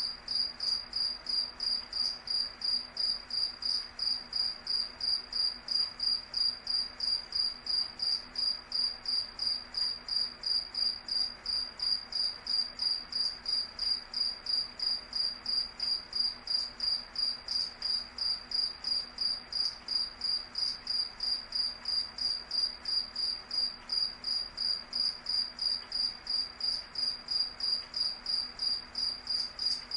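Cricket chirping: a high-pitched chirp repeating evenly, about two to three chirps a second.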